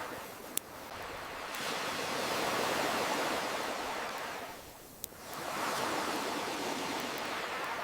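Ocean waves washing in and drawing back, swelling and fading twice. Two sharp pops from a crackling campfire, one near the start and one about five seconds in.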